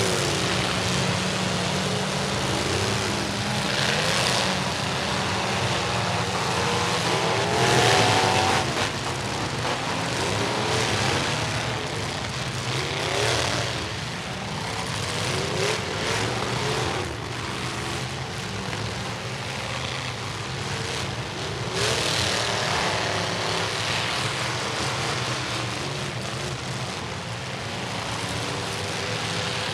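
Several demolition derby trucks' engines running and revving at once, their pitches rising and falling over one another, with a few short louder bursts along the way.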